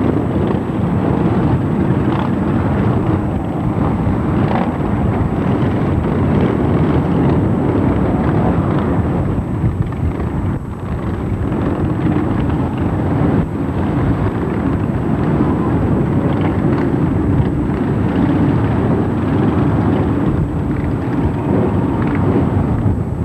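Continuous loud rumble of vehicle engines running.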